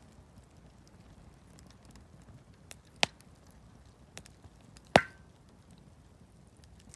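Wood campfire crackling with faint scattered ticks, and two loud sharp pops about two seconds apart; the second is the louder and has a brief ring.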